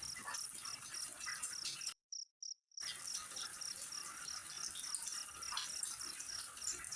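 Crickets chirping at an even pace, about three chirps a second, over a steady hiss. The sound cuts out completely for just under a second about two seconds in, then resumes.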